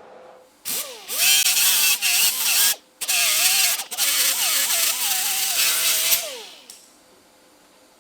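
TIG welding arc on thin sheet steel: a harsh hiss with a wavering tone that rises as the arc is struck, breaks off twice, and falls away as it is shut off after about six seconds.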